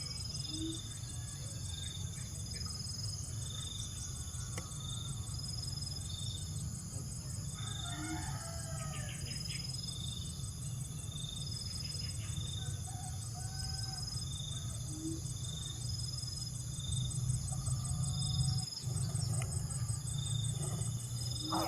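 Outdoor bird and insect sounds over a steady low rumble. A short high note repeats about once a second and an insect trills rapidly and steadily. About eight seconds in, a rooster crows once, briefly.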